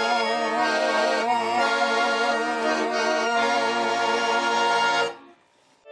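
Accordion playing the closing chords of a Russian folk song, then cutting off suddenly about five seconds in, leaving a moment of near silence.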